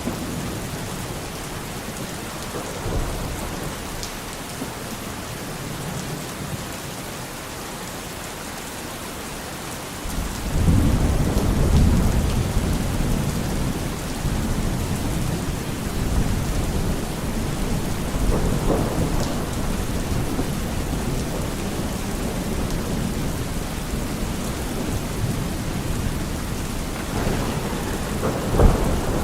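Steady rain falling in a thunderstorm, with rolling thunder: a long low rumble swells about ten seconds in and fades over several seconds, more rumbling follows, and a sharper thunderclap comes near the end.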